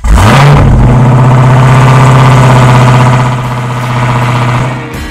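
A car engine started by push button: it catches at once with a quick flare in revs, then settles to a steady idle. The sound eases down a little past three seconds in.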